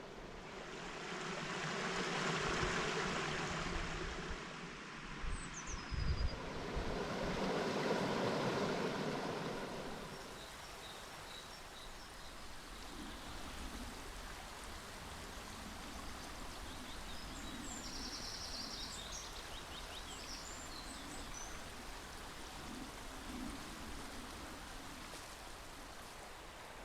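Woodland stream flowing steadily, with a few faint bird chirps. The rushing swells louder twice in the first ten seconds, with a few low thumps about six seconds in.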